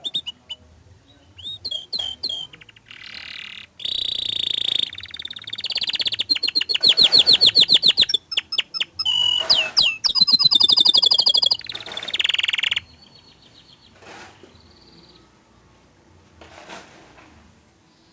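Domestic canary singing a loud, varied song of fast rolling trills and sharp whistled notes, stopping about thirteen seconds in.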